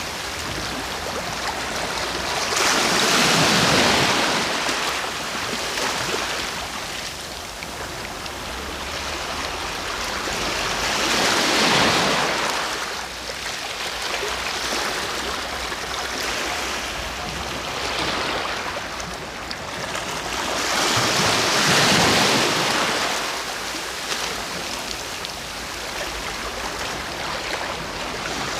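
Ocean waves breaking on the shore and washing back, one wave swelling to a peak about every eight to ten seconds, three times, over a steady surf hiss.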